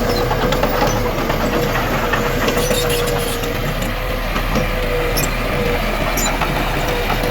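Diesel engine of heavy earthmoving machinery running steadily, with a constant whine and scattered light clicks and clanks.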